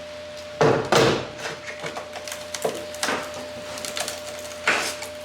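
Irregular sharp knocks and crunching scrapes, the two loudest about half a second to a second in, then three more spaced out. The sound is of hand tools working on the rusted cab corner of a truck's body metal, over a steady faint hum.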